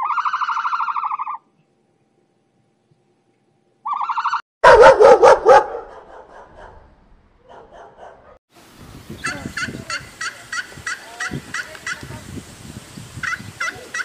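Domestic turkey gobbling: several rapid warbling gobbles in the first six seconds, the loudest about five seconds in. A run of short calls repeating two or three times a second follows.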